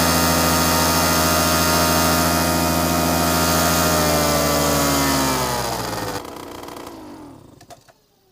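Paramotor engine running loud and steady through its newly welded exhaust, then falling in pitch after about four seconds and dropping away sharply a little after six seconds as it is shut down, dying to near silence by the end.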